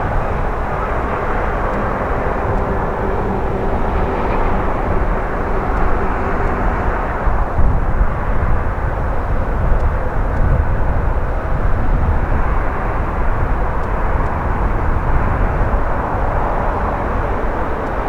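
Bombardier CRJ700 regional jet's twin turbofan engines, a steady, loud jet roar heard outdoors with heavy low rumble.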